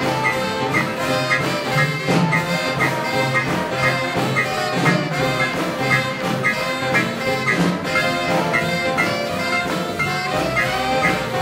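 A big band plays hot swing-style jazz, with trumpets and trombones over a steady beat.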